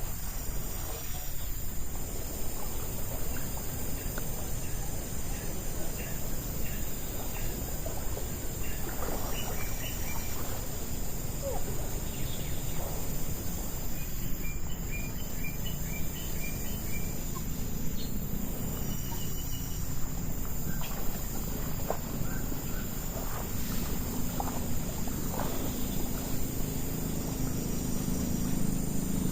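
Outdoor nature ambience: a steady background hiss with insects, scattered small clicks, and a quick run of about six bird chirps about halfway through.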